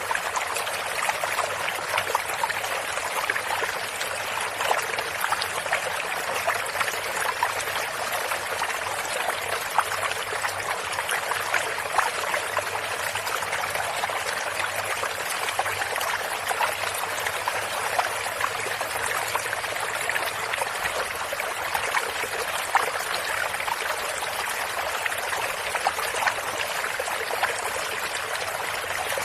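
Running water of a small stream or brook, a steady flowing and trickling with many small splashes and no lulls.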